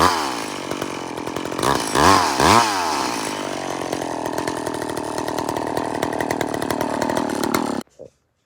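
Chainsaw engine revved up and back down in quick blips, three or four times in the first three seconds, then running steadily. It cuts off abruptly near the end.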